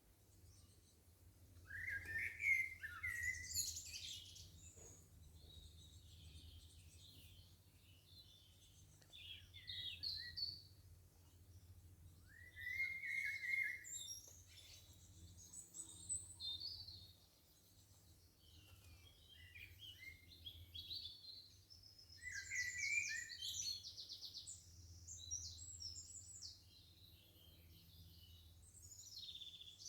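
Wild songbirds singing and calling: a run of bright chirps, trills and warbled phrases in separate bursts with short pauses between, over a faint steady low hum.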